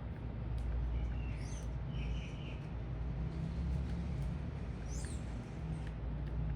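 A few short bird chirps at a feeder, two of them falling sharply in pitch, over a steady low city rumble.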